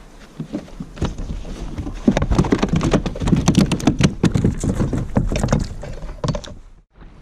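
Rapid, irregular knocking and clattering of handling on a kayak, with a fish and gear knocking against the hull. It starts about a second in and breaks off suddenly near the end.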